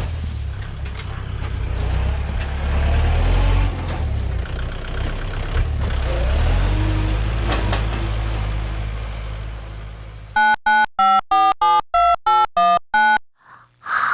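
A low, steady engine-like rumble with a shifting pitch, then near the end a run of about ten evenly spaced electronic beeps, about three a second, like a vehicle's reversing beeper.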